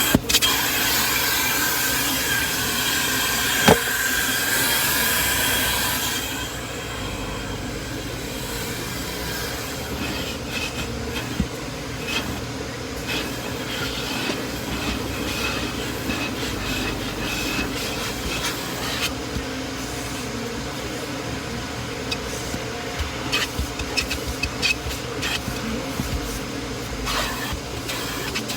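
Car wash vacuum running steadily with a rushing whine, loudest for the first six seconds, then lower, with small clicks and rattles of debris being sucked up.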